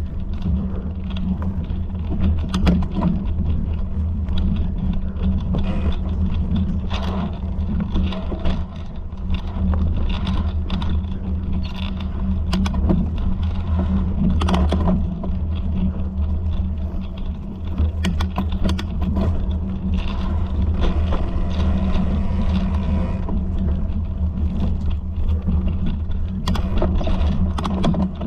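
A vehicle riding over a rough trail: a steady low rumble throughout, with frequent knocks and rattles from the bumps.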